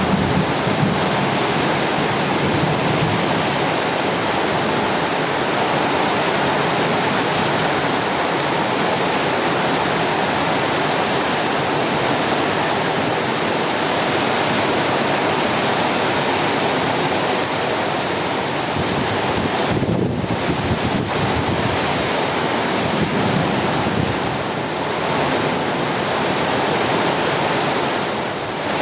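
Heavy rain pouring down, a loud, even hiss that holds steady throughout.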